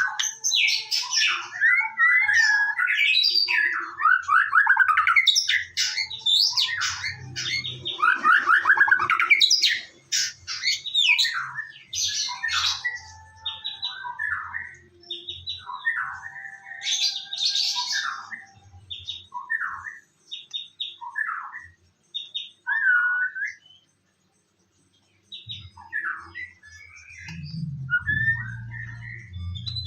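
White-rumped shama (murai batu) singing a varied run of whistled phrases, gliding notes and harsh scratchy calls, densest in the first third and thinning out, with a brief pause about three-quarters of the way through.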